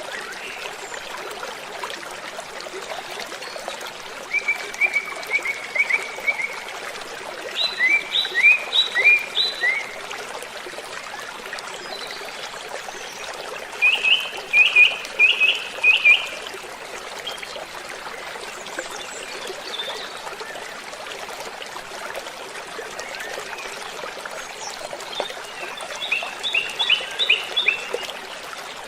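Waterfall rushing steadily, with a songbird singing four short phrases of quick chirped notes over it.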